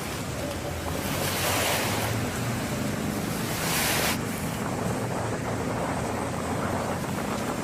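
Wind buffeting the microphone over the rush of sea surf, with two louder surges of hiss: one about a second in and another around three and a half seconds in.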